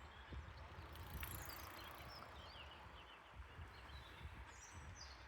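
Faint outdoor ambience with small birds chirping in short repeated calls, over a low rumble of wind on the microphone.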